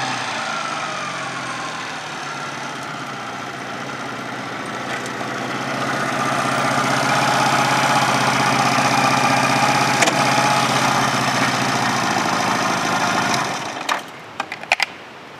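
An engine running steadily, then shut off about 14 seconds in, followed by a few sharp clicks.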